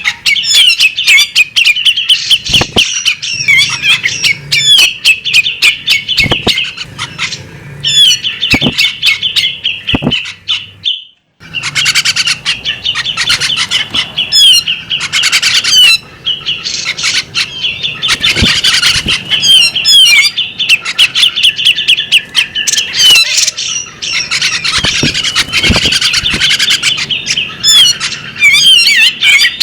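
Female magpie-robin singing a fast, continuous run of chirps and whistles, the song breaking off for a moment about 11 seconds in before going on.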